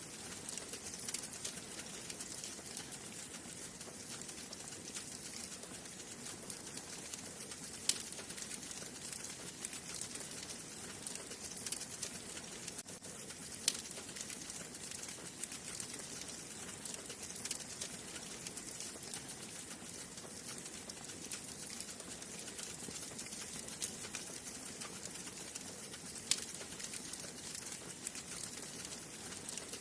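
Wood fire burning in a fireplace: a steady hiss with constant fine crackling and a few louder pops.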